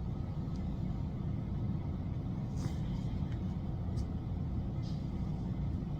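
Steady low rumble of background noise, with a few faint short ticks.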